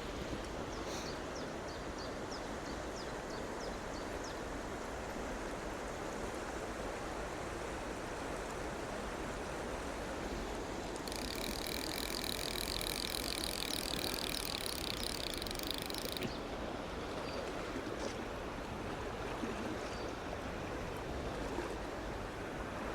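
Small stream running over stones, a steady rushing. About eleven seconds in, a high, rapid trill sounds for about five seconds, and a few faint high chirps come in the first few seconds.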